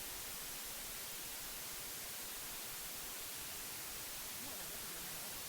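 Steady white noise, an even hiss strongest in the treble, used to mask subliminal affirmations.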